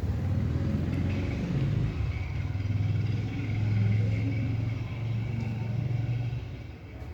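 A motor vehicle's engine running with a low hum, louder in the middle and fading shortly before the end.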